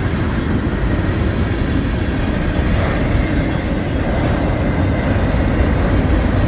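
Freight cars of a CSX mixed-freight train rolling past, their steel wheels making a steady, unbroken rolling noise on the rails.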